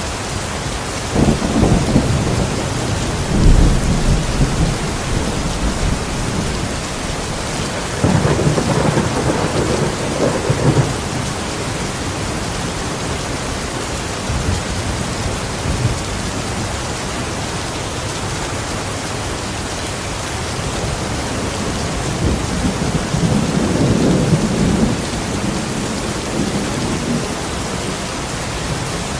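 Steady rain falling, with three long low rolls of thunder rumbling up and dying away: one a second or so in, one about eight seconds in, and a softer one near the end.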